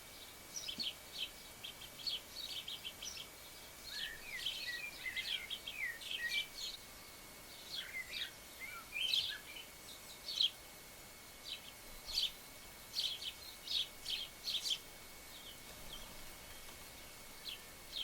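Garden birds calling: many short, high chirps in quick runs, with some lower sliding twitters from about four to nine seconds in.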